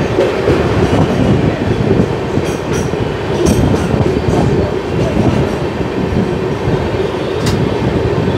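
Lokshakti Express passenger train running on the rails: a steady, loud rumble of wheels and coaches, with a few sharp clicks over rail joints.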